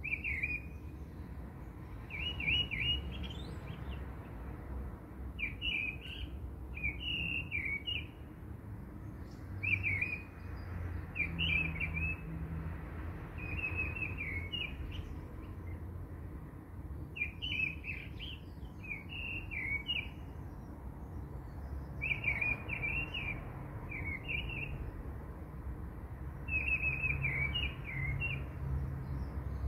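A small bird chirping in short repeated phrases, a burst every second or two, over a low steady hum.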